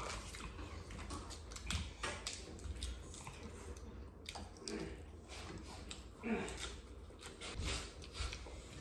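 Close-up eating sounds: people chewing and biting grilled skewered meat and lettuce wraps, with many small wet smacks and clicks.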